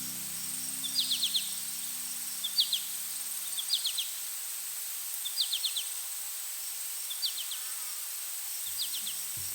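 A steady high-pitched insect drone with a bird repeating a short burst of three or four quick high notes about once a second. A music chord fades out over the first few seconds, and music comes back in near the end.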